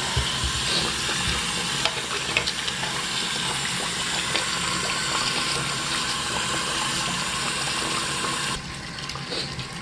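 Tap water running steadily into a sink and down the drain, which has just been cleared of a clog of hair and is draining freely. The flow noise cuts off abruptly near the end.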